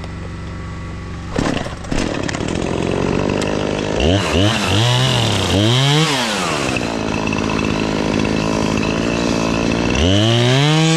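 Gas chainsaw running at idle, blipped up and down twice about four seconds in, then throttled up near the end and held at high speed to cut a tree limb.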